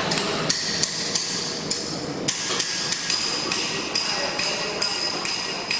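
A hammer striking metal over and over, about two to three blows a second, each with a high metallic ring.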